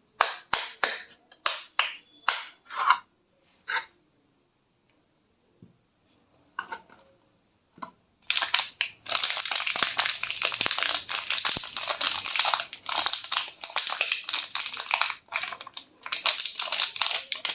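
Bar soap being scraped: a few separate crisp strokes, a pause with only small sounds, then from about 8 s a long dense run of crumbly scratching.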